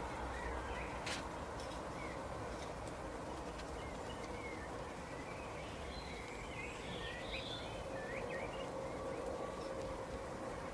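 Small birds chirping in short, scattered calls, more of them past the middle, over a steady background hiss with a faint hum.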